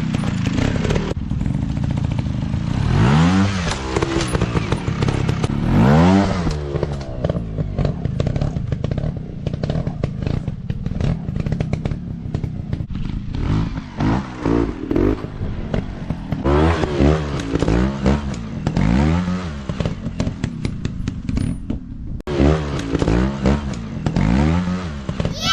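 Small-displacement dirt bike engine running and revving again and again, its pitch rising and falling as the throttle is worked, with some clattering.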